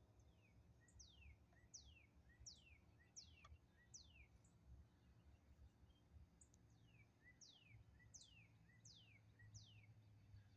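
A songbird singing faint, sharp down-slurred whistles, each falling steeply in pitch and followed by a short lower note, in two runs of five or six notes with a pause between them, over a low steady rumble.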